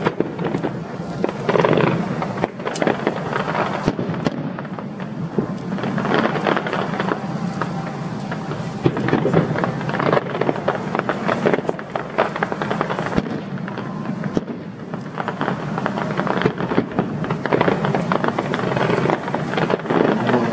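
Fireworks display: a dense, continuous run of bangs and crackling from bursting aerial shells.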